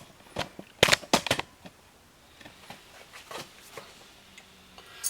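Several sharp clicks and knocks of hand tools being handled at the rear brake, a quick cluster about a second in and a few fainter ones later.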